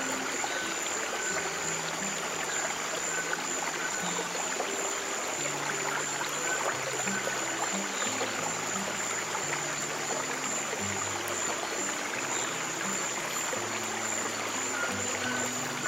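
Stream water running steadily over soft, slow piano chords held low in pitch.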